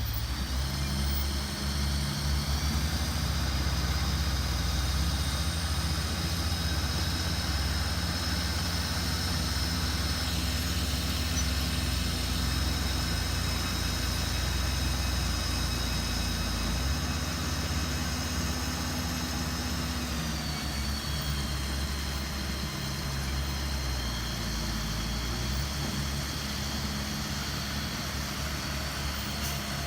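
Diesel engine of a heavy earthmoving machine running steadily, with a high whine that rises in pitch about two seconds in and drops back about twenty seconds in.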